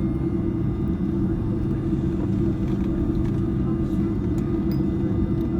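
Steady low rumble inside the cabin of an Airbus A310-304 taxiing after landing, from its engines running at low power and the airframe rolling along the taxiway.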